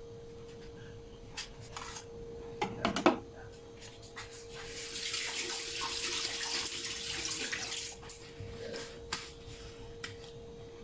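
Kitchen tap running for about three seconds in the middle, after a few short knocks of utensils or dishes.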